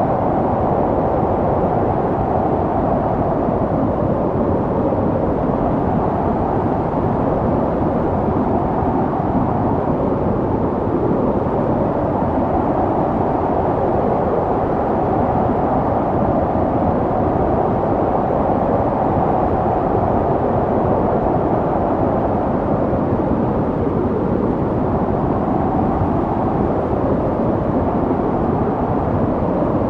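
Snowstorm wind blowing steadily, a deep, even rush of noise with slow, gentle swells in pitch.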